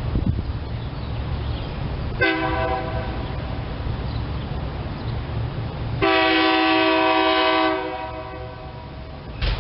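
SEPTA Silverliner electric commuter train sounding its horn twice: a short blast about two seconds in, then a louder, longer one a few seconds later, over the low rumble of the train.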